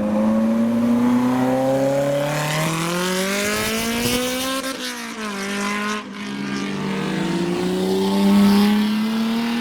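A modified car's engine accelerating hard away. The revs climb steadily, fall back around five seconds in as it shifts up, then climb again.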